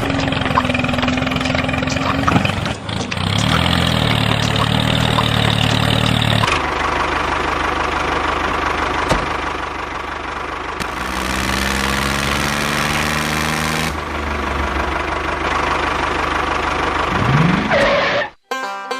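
A motor running steadily, its pitch shifting abruptly a few times, then cutting off near the end as music starts.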